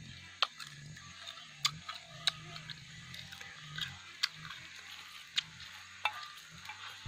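Close-up chewing of crunchy grilled insects: irregular sharp clicks and mouth smacks about once a second, over a low hum.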